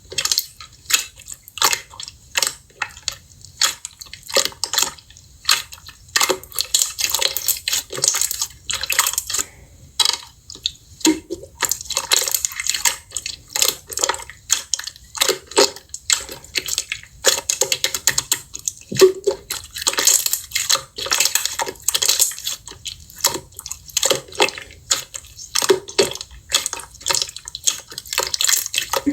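Slime being squished and pressed by hand: a dense, irregular run of short wet clicks and small pops.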